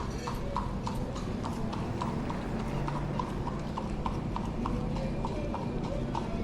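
Horse hooves clip-clopping on hard ground at a steady walk, about three to four hoofbeats a second.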